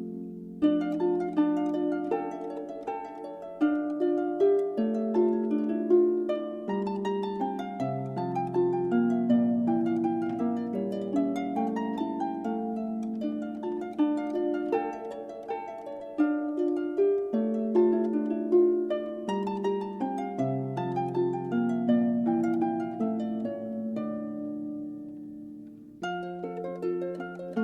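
Background music: gentle plucked harp notes in flowing patterns, with a brief pause near the end.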